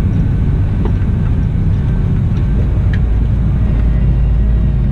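Cat 972M XE wheel loader's diesel engine running steadily, a continuous low drone with no change in pitch.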